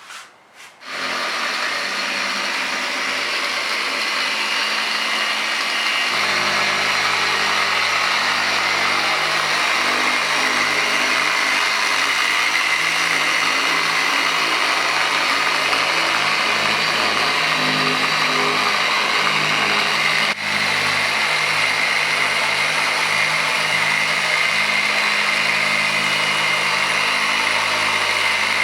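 Electric dual-action polisher running steadily on car paint, with a brief drop about twenty seconds in.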